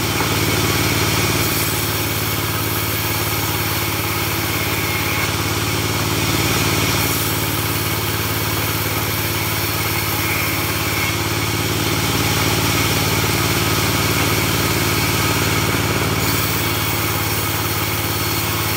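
Portable band sawmill running steadily: a constant engine-driven drone with a hiss over it, swelling slightly now and then.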